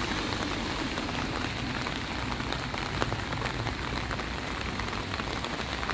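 Heavy rain falling steadily on wet ground and pavement: an even hiss dotted with many small drop ticks.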